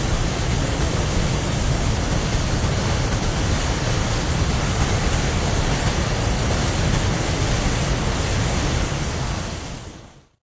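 Steady rushing of falling water at the Rhine Falls, a dense even noise that fades out near the end.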